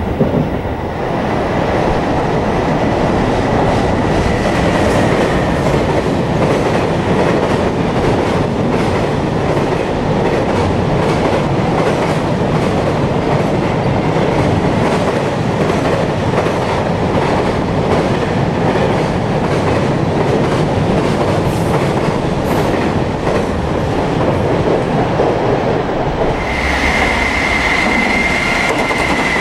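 Freight train wagons rolling past: steady wheel rumble with rapid clickety-clack over rail joints. About 26 seconds in, the sound switches to a second freight train hauled by an electric locomotive, running with a steady high tone over the wheel noise.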